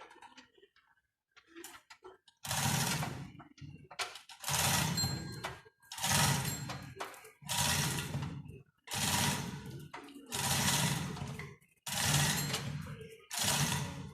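Engine hoist being worked stroke by stroke to lift a Ford Ranger's engine out of its bay, a mechanical rattle in about eight even strokes roughly every one and a half seconds, starting a couple of seconds in.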